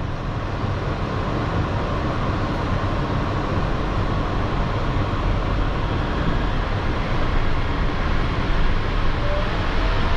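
Running noise of a rubber-tyred Yurikamome automated train pulling away from a station, heard from inside the car. Near the end a faint motor whine starts to rise slowly in pitch as it gathers speed.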